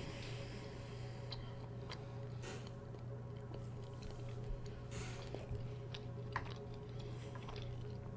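Faint closed-mouth chewing of food, with scattered soft wet mouth clicks over a steady low hum.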